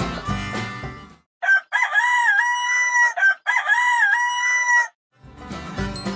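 Rooster crowing cock-a-doodle-doo twice in a row, each crow ending in a long held note. Light background music plays before and after the crows.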